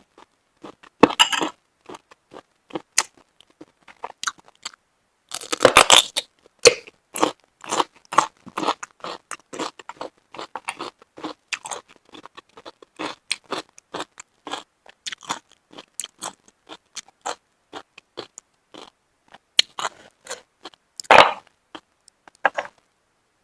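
Close-miked chewing of steamed shellfish: a run of many short, wet mouth clicks, with louder, longer bursts about a second in, around six seconds in and near the end.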